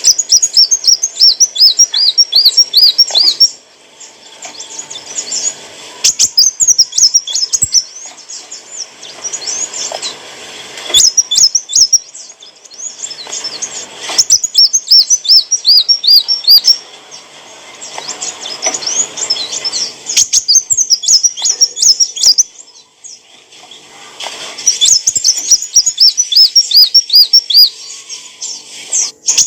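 Kolibri wulung sunbird singing loudly in high, rapid phrases of quickly repeated looping notes. Each burst lasts a couple of seconds, with short pauses between them.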